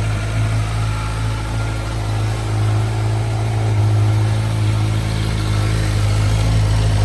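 Kawasaki Versys 1000 GT's inline-four engine idling steadily.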